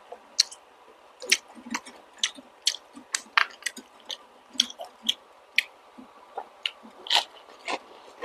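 Close-miked chewing of balut: wet mouth smacks and squishy clicks at an irregular pace, about one or two a second.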